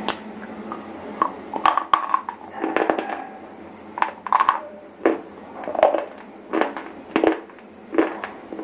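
Close-miked chewing of shele stone, a soft white edible stone: a string of sharp, dry crunches, about one or two a second, as it is bitten and ground between the teeth.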